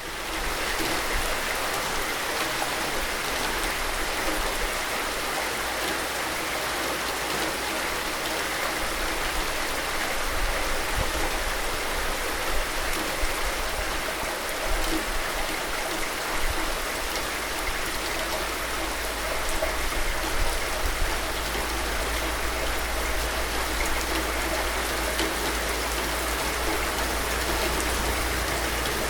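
Steady rain falling: an even hiss with a few louder drop hits scattered through it.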